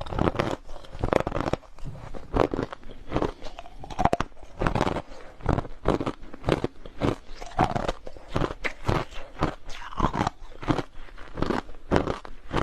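Close-up crunching of hard crushed ice as a person bites and chews it, a rapid, irregular run of sharp crunches several times a second.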